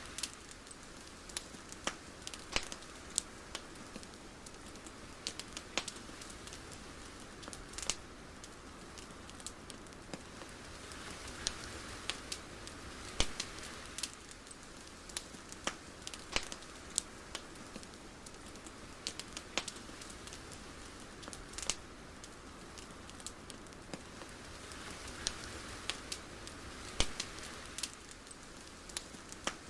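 Irregular sharp crackles and clicks over a soft steady hiss, with the hiss swelling gently twice.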